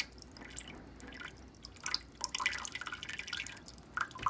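RO/DI product water dripping and trickling from the output line into a partly filled bucket, in irregular splashes.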